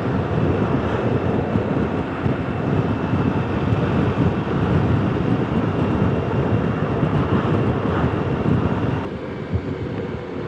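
Motorcycle riding noise through a helmet-mounted intercom microphone: a steady rush of wind and road noise with the engine beneath. About nine seconds in, the higher part of the rush drops away and it becomes quieter.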